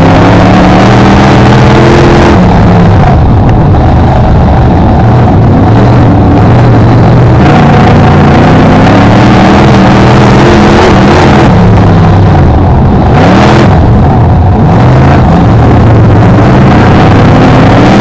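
BriSCA F1 stock car V8 engine heard on board at racing speed, very loud, its note repeatedly rising and falling as the throttle is worked, with a sharp drop and pick-up about two-thirds of the way through.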